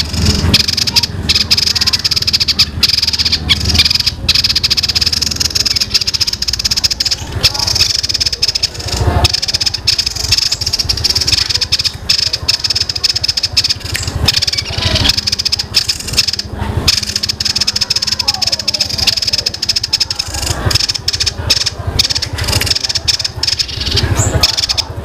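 A small songbird singing a long, unbroken, rapid rolling chatter, very like fighting Eurasian tree sparrows, a dense high-pitched stream of notes.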